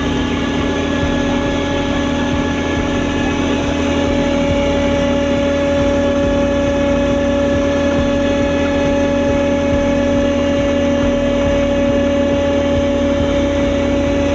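Heavy asphalt-paving machinery's diesel engine running steadily, a constant rumble with a few steady humming tones held throughout.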